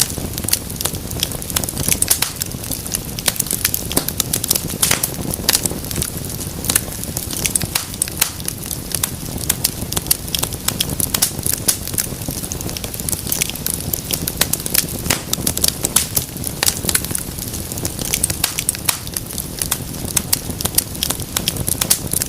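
Wood fire burning in a fireplace, crackling and popping irregularly with many sharp snaps over a steady low rushing of the flames.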